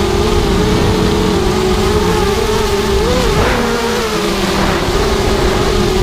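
FPV racing drone's motors and propellers whining steadily, the pitch wavering up and down with the throttle, over a rough low rumble.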